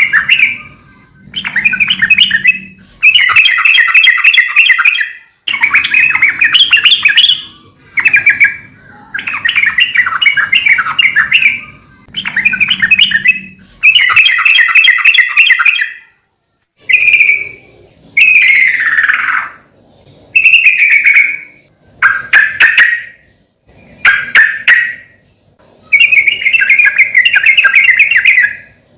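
Sooty-headed bulbul (trucukan) singing vigorously, in repeated short bursts of chattering, warbling song about one to two seconds long with brief pauses between them. One phrase near the middle slides steeply down in pitch.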